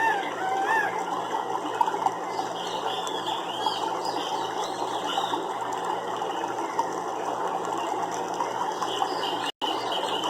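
Nature ambience: a dense, steady chirring chorus, with repeated short rising-and-falling call notes over it. The sound cuts out for an instant near the end.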